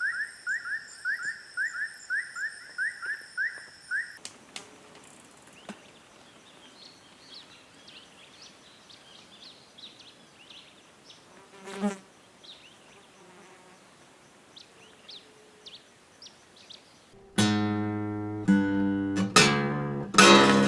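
Night insect chorus: a chirping call repeated about three times a second over steady high-pitched trills, stopping about four seconds in. Then only faint scattered chirps, until loud plucked-guitar music starts near the end.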